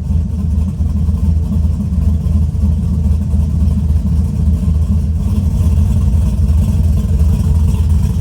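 Cammed 5.3-litre V8 of a 2006 GMC Sierra idling just after its first start, with a choppy, loping exhaust note. The exhaust runs out through a pair of small burnt-tip 'fart can' mufflers.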